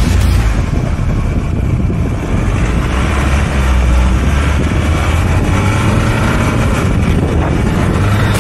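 Four-wheel-drive vehicle's engine running under load while driving, a loud steady low rumble with road and tyre noise over it.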